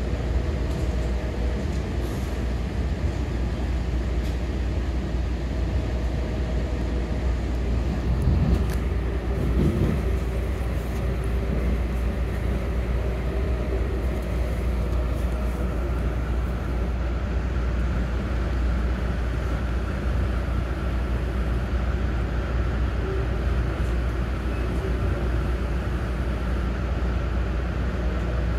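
MARC commuter train running at speed, heard from inside a passenger coach: a steady low rumble and rail noise, with a brief louder swell about a third of the way in and a faint steady whine that grows stronger over the second half.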